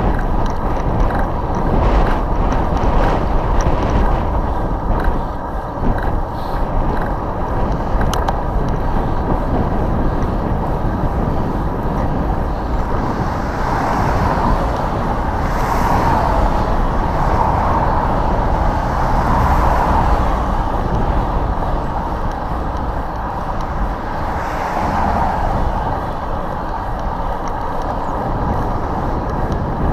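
Road traffic heard under wind buffeting the microphone, with vehicles swelling and fading as they pass, several around the middle and another later on.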